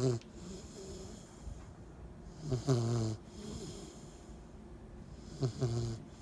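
A 10-week-old Cane Corso puppy snoring, a low snore about every three seconds. One snore is ending at the start, and two more follow, each bending at first and then holding a steady drone for about half a second.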